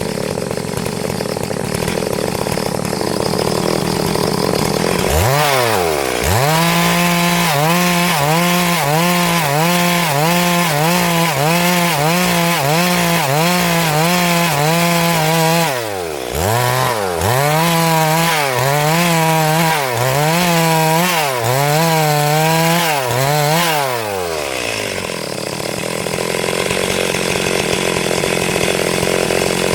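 Stihl MS382 two-stroke chainsaw ripping a hardwood log lengthwise. About five seconds in, the engine revs up to full throttle and holds a high pitch that wavers about once a second as the load changes. It dips briefly about halfway and winds down near the end. A rough steady noise comes before and after the run.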